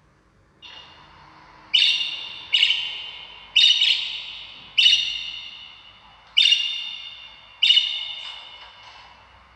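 A bird calling six times in a row, loud calls about a second apart, each starting sharply and fading away.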